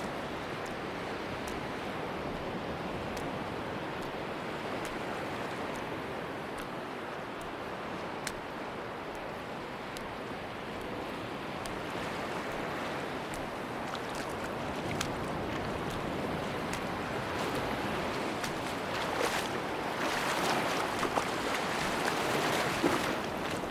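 Sea waves washing on a beach in a steady rush, with a wave swelling louder and fizzing near the end.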